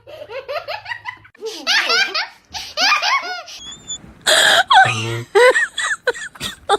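Laughter in repeated short bursts.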